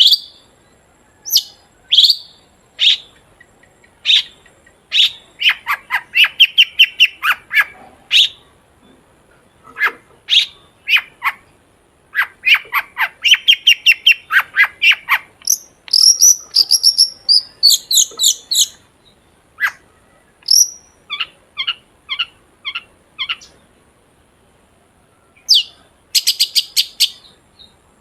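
Long-tailed shrike (cendet) singing loudly and vigorously: sharp, high single calls and runs of rapid repeated chattering notes, broken by short pauses, with a quiet gap of about two seconds after the middle.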